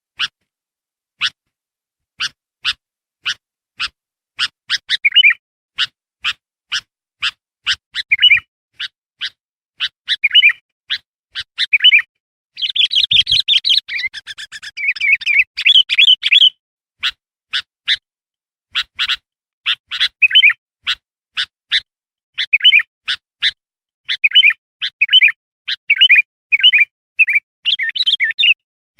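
Bulbul (kutilang) calling: a rapid series of short sharp chirps, a few a second, broken by brief warbled song phrases, with a dense stretch of excited chattering about halfway through. A bird-lure recording of kutilang song used to call in wild birds.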